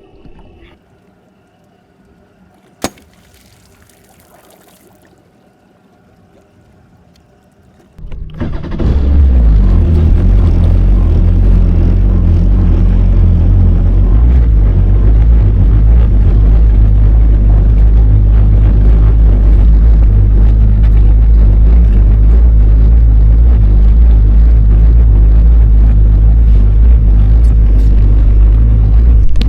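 Watercraft engine starting about eight seconds in, then running steadily and loud with a strong low hum. Before it there is only a quiet stretch with a single sharp click.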